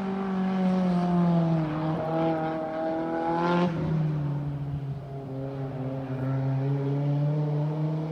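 Turbocharged SR20 four-cylinder engine of an S15 Silvia drift car held high in the revs, its note sagging and rising. A short rush of noise comes about three and a half seconds in, after which the engine note settles lower and steadier.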